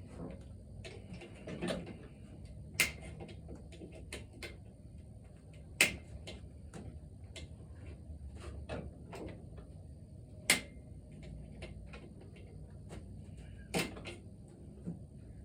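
Hand tools clicking and knocking against metal engine parts during work on the valves, a scatter of light taps with four sharp, louder knocks spread through.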